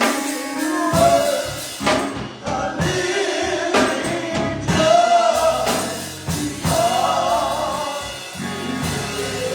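Gospel music: voices singing over a band with drums.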